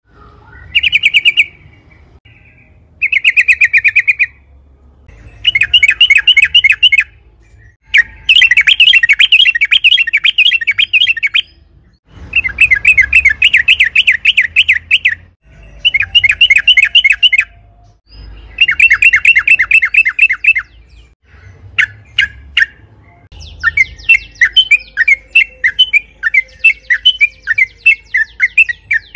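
Yellow-vented bulbul (trucukan) singing loud, fast chattering phrases of rapidly repeated notes, each phrase one to three seconds long with short pauses between. Near the end the phrases run together into a longer continuous chatter.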